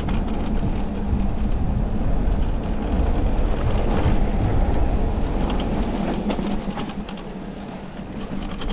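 Riding noise of an e-mountain bike on a wet trail: a steady rumble of tyres on the ground and wind on the microphone, with a few brief rattles from the bike. It eases off a little near the end.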